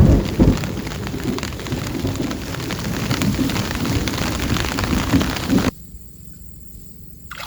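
Heavy rain pouring down with thunder: a loud thunderclap right at the start, then low rolling rumbles under the steady rain. The sound cuts off abruptly near the end to a much quieter background.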